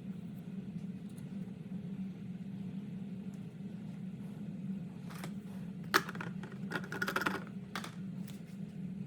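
A cluster of light clicks and a short rattling scrape of small tool parts being handled over a steady low hum. The sharpest click comes about six seconds in.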